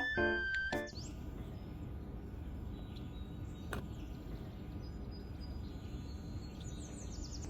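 Steady outdoor background noise with a few faint high bird chirps, following the last notes of music that stop about a second in.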